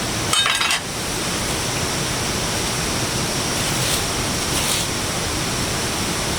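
Steady rushing water noise, with a quick run of sharp clinks about half a second in and two fainter clinks later.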